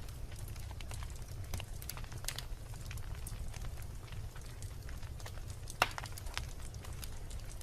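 Wood logs burning in a fireplace, crackling with scattered sharp pops over a steady low rumble; one louder pop comes about six seconds in.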